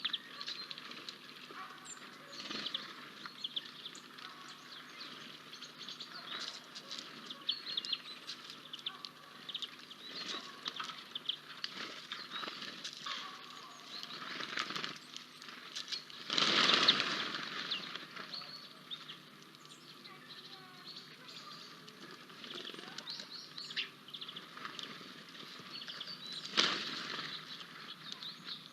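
Birds at a bird feeder: frequent short wing flutters and light taps with faint chirps, and two louder bursts of wing noise, one about two-thirds of the way in and one near the end.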